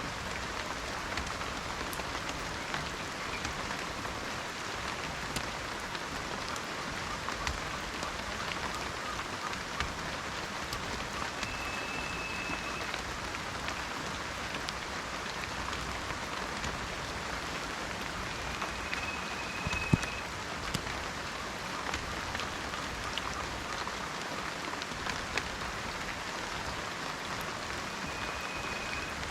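Steady rain falling in a forest, with many small drips and one sharper tap about twenty seconds in. A brief high whistle, about a second long, comes three times.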